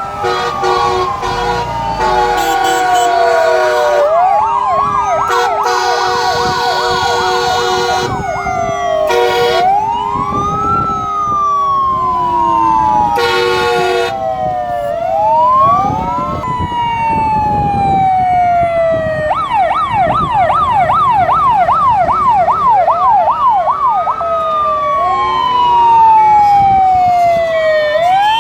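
Several fire truck sirens sounding at once as a column of fire engines drives past. Slow rising-and-falling wails overlap throughout, and one siren switches to a fast yelp of about two sweeps a second for some five seconds in the second half. Steady blaring horn blasts sound over them several times in the first half.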